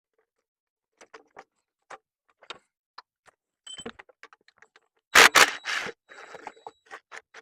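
Scattered metallic clicks of a socket ratchet working loose a starter mounting bolt, then a louder metal clatter about five seconds in.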